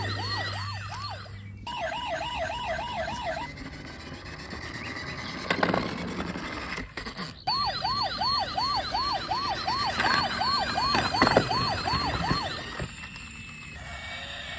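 Electronic toy police-car siren wailing in quick repeated sweeps, about three a second. It switches briefly to a faster warble near the start, stops, then sweeps again, with a few knocks in between.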